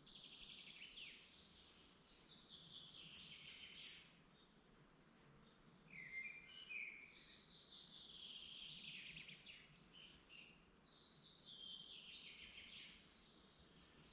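Faint forest birdsong: songbirds singing long, trilled phrases that fall in pitch, one every few seconds, with a few short, lower notes about six seconds in.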